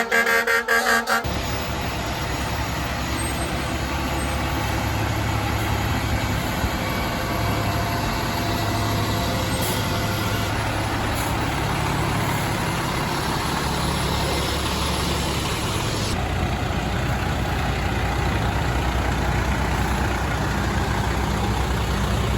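A fire truck siren breaks off about a second in. Then comes a steady low rumble of the fire truck's engine running, with a noisy hiss over it.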